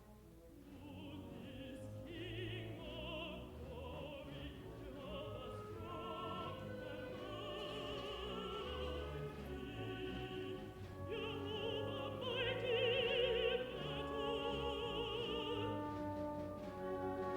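Contralto singing with wide vibrato over a full orchestra, building from a hushed start to its loudest about two thirds of the way through.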